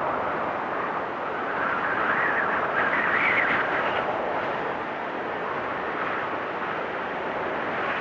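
Blizzard wind blowing in gusts: a steady rush that swells and eases, with a higher whistling swell about three seconds in.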